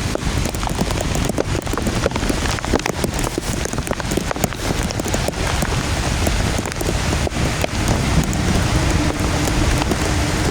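Heavy rain pouring down, a dense patter of drops striking close to the microphone over a low rumble. A faint steady hum comes in about nine seconds in.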